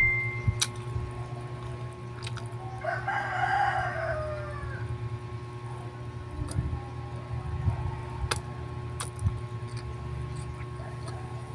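A rooster crows once, about three seconds in: one call of about two seconds that drops in pitch at the end. A steady low hum runs under it, with a few sharp clicks.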